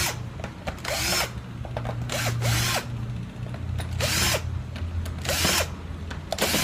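Cordless electric screwdriver running in several short bursts, backing the screws out of a power drill's plastic housing.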